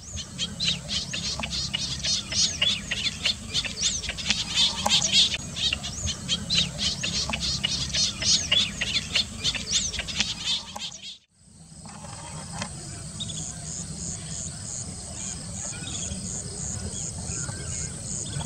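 Many small birds chirping and calling busily over one another. About eleven seconds in this cuts off abruptly, and an insect's steady high pulsing trill takes over, about three pulses a second, with fainter bird calls under it.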